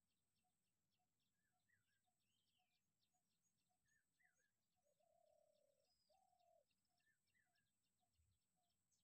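Very faint outdoor birdsong: a short note repeated about twice a second, with scattered higher chirps, and a longer, louder call around the middle.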